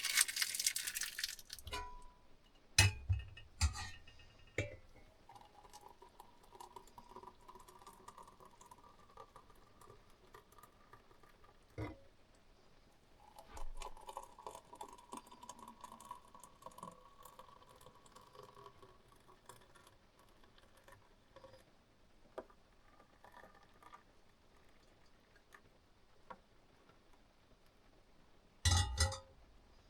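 Dishes and glassware clinking and knocking now and then, with a short hiss at the very start and a cluster of knocks near the end.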